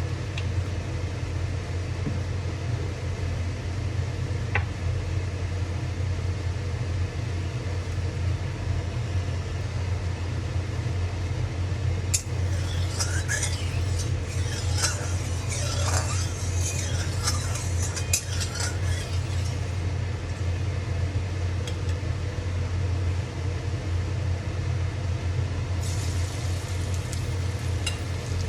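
Steady low hum throughout. About twelve seconds in comes a stretch of several seconds of kitchen utensils clinking and scraping against a bowl, and there are a few more clinks near the end.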